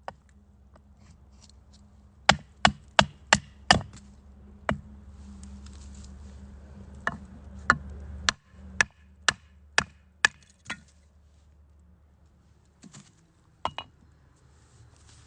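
Sharp chopping knocks on wood in quick runs: five at about three a second, a single one, then about eight more at a similar pace, and a last pair near the end.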